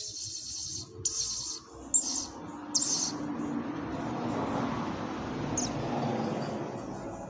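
A bird giving four short, shrill chirps about a second apart, followed by a steady background hiss.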